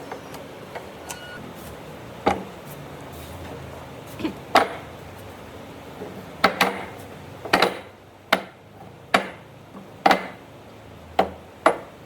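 A hammer striking wood: about a dozen separate, irregular blows, some in quick pairs, getting more frequent in the second half.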